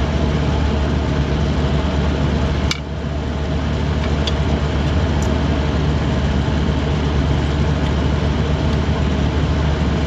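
Steady, loud mechanical drone of running machinery, a low hum with a hiss over it. About two and a half seconds in there is a sharp click and the drone dips briefly before picking back up.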